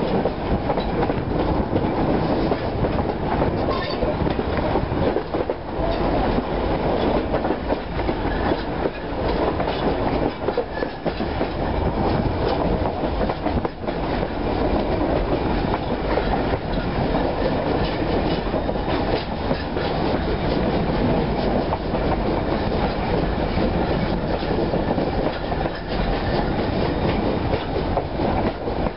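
A heritage train's wooden passenger carriage rolling steadily along the track, with a continuous rumble and rattle and the wheels clicking over the rail joints.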